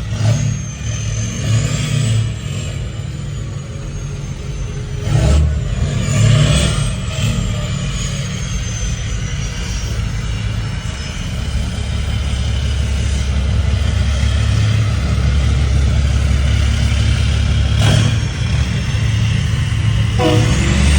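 Lifted diesel pickup truck engine running and revving. A high whistle rises and falls twice in the first half, a steady low rumble holds from about halfway, and the engine revs up again just at the end.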